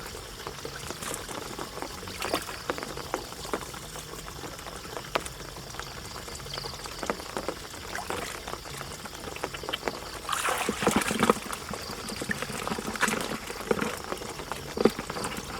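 Water splashing and trickling, with many small irregular splashes and a louder stretch of splashing about ten seconds in.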